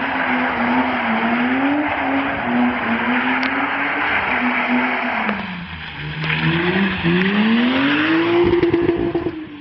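BMW E36 M3's straight-six running through a Scorpion aftermarket exhaust under load. The engine note wavers up and down, drops about six seconds in, then climbs steadily as the revs rise near the end.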